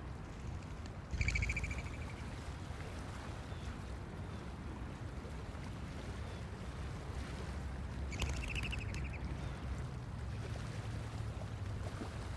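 Blue jay giving two short, harsh calls, about a second in and again about eight seconds in, over a steady low rumble.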